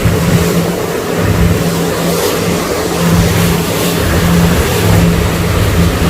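Tour boat's engine running steadily with a constant low hum, with wind rumbling on the microphone.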